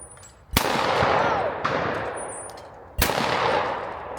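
Shotgun fired twice, about two and a half seconds apart, each shot followed by a long fading echo.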